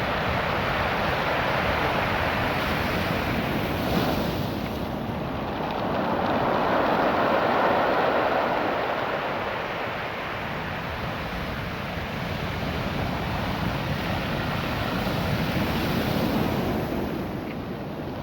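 Surf breaking on a beach of small rounded stones, the water washing in and draining back through the pebbles as a steady rushing hiss. It swells twice, about a third of the way in and again near the end.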